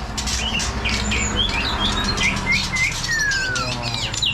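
Caged songbirds chirping in quick, overlapping notes, among them a white-rumped shama giving short rising whistles and one clear falling whistle about three seconds in. A steady low hum runs underneath.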